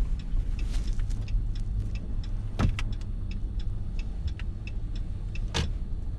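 Steady low rumble of a truck driving, heard from inside the cab, with an even ticking about three times a second that suits the turn-signal indicator. Two sharper knocks sound, one around the middle and one near the end.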